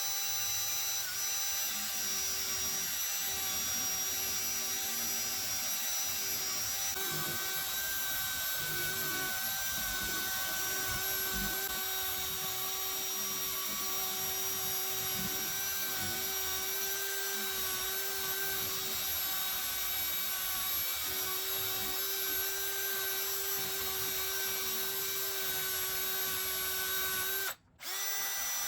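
Electric power tool running at a steady speed, a steady whine over a dense hiss. The sound drops out for a moment near the end, then carries on.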